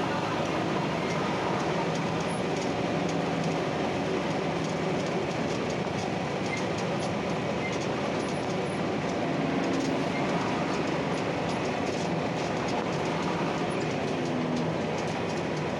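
Inside an Ikarus-260 bus on the move: the diesel engine runs steadily under a rumble of road noise, while the body and fittings rattle and click over and over.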